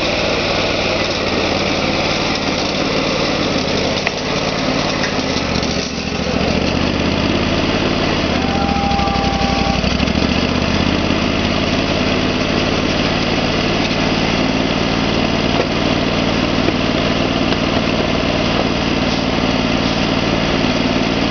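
Portable sawmill's engine running steadily. About nine seconds in its pitch sags briefly and recovers.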